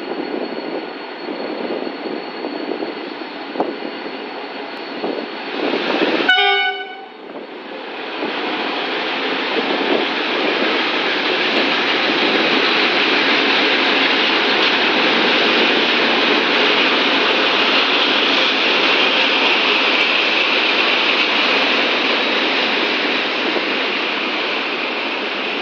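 Diesel locomotive hauling a test train of Chinese-built passenger coaches rolls slowly past: engine running with a steady high whine, a short horn blast about six seconds in, then engine and wheel noise building as the locomotive and coaches go by.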